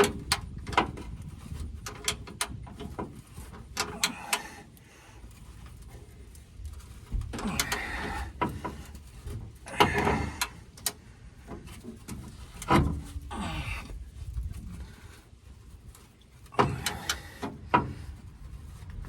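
Socket ratchet clicking in irregular spurts, with scattered metal clanks and scrapes, as a rusted bolt on the truck's spare tire winch is turned out.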